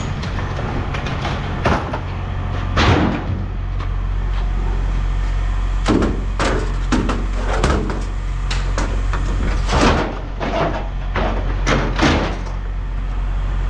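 Scrap metal clanking and banging as pieces are tossed and handled, a dozen or so sharp knocks at uneven spacing, over a steady low engine hum.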